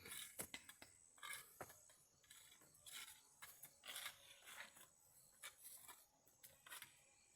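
Faint, irregular knocks and short scraping sounds, a few each second at first and sparser later.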